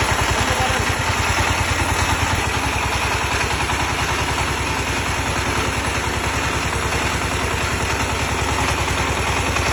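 Sifang 20 HP power tiller single-cylinder diesel engine running steadily with an even, rapid firing pulse.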